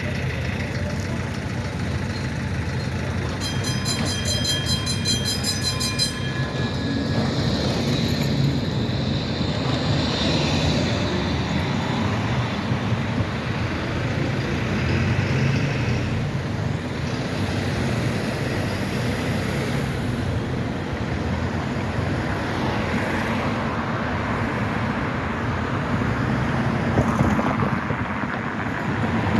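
Zagreb city tram running along a street, a steady rumble of wheels and motors with traffic noise. A brief high ringing tone comes in about three and a half seconds in and lasts a couple of seconds.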